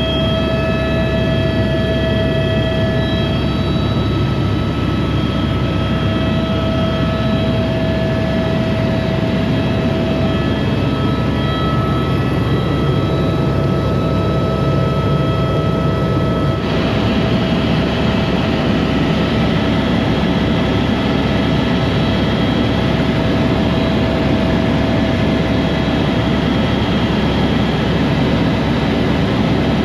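Aircraft engine running, a steady drone with a whine; its tone shifts about halfway through.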